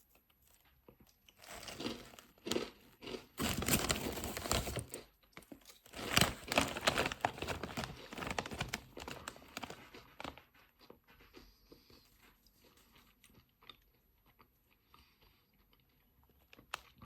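Crunchy crinkle-cut potato chips being bitten and chewed, loud crunching for the first ten seconds or so, then fading to faint chewing.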